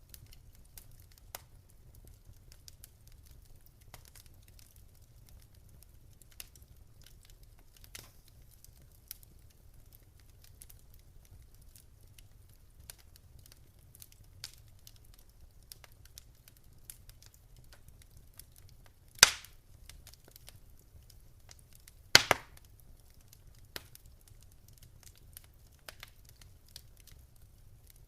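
Wood fire crackling in a fireplace: sparse faint crackles over a low steady rumble. Two loud sharp pops come about three seconds apart near the end, the second a quick double snap.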